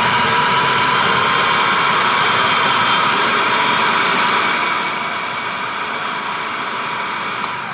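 Food processor motor running steadily, blending baked salmon, brown rice and vegetables; it gets a little quieter about five seconds in and stops near the end.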